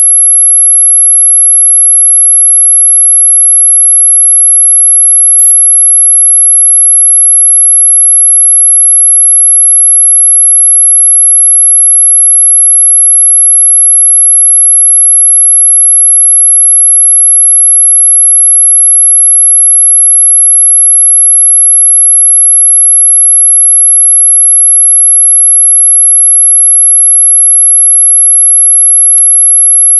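A steady, very high-pitched pure electronic tone, played as a mosquito-repelling 'ultrasonic' sound, though it lies within hearing range. A brief click breaks it about five seconds in, and a fainter one comes near the end.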